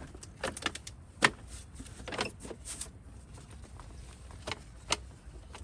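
Scattered light knocks and clicks, irregular, the sharpest about a second in and near the end, over a low steady rumble.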